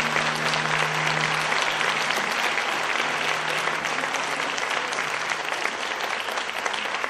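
Audience applauding at the end of a concert piece. For the first couple of seconds, the final low note of the music is still held under the clapping, then fades out.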